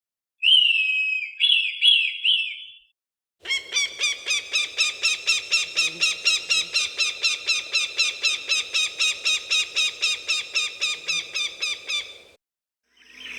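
Falcon calls. First comes a short call, a held note breaking into a few falling notes; then, after a brief pause, a long run of rapid, even cackling notes, about four a second, that stops about a second before the end.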